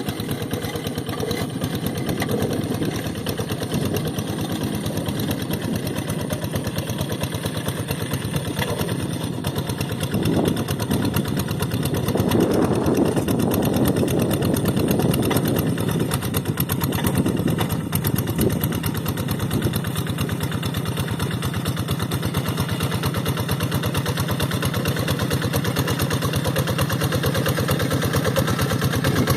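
Paddy-field tractor engine running steadily with a rapid, even firing beat, growing louder and busier for about ten seconds in the middle before settling back.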